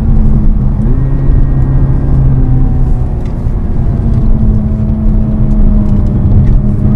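Seat Leon Cupra 280's turbocharged 2.0-litre four-cylinder heard from inside the cabin under way, over heavy road and tyre rumble. The engine note steps up about a second in, drops away near three seconds, then holds steady again.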